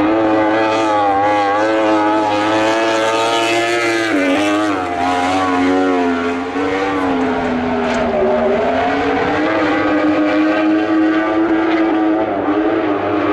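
Lightning sprint car engine running hard, its pitch repeatedly rising and falling as the revs change, with a short drop about four seconds in and again near the middle.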